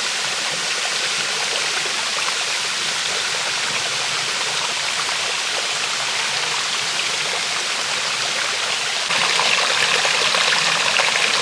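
Rushing water of a mountain stream and waterfall, a steady roar that grows louder about nine seconds in.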